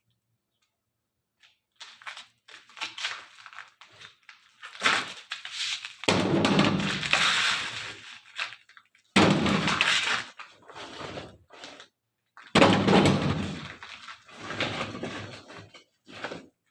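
Demolition rubble being handled and dumped: a run of crashes and rattling, with three heavier crashes about six, nine and twelve and a half seconds in, each trailing off over a couple of seconds.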